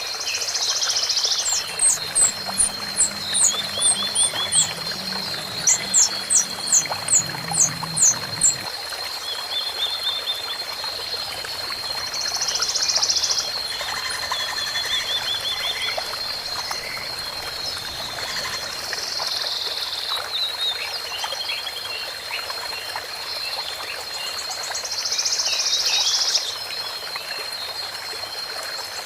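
Outdoor animal calls: a fast run of short, high chirps for the first several seconds, and buzzy high calls that come back every several seconds, over a steady high-pitched whine.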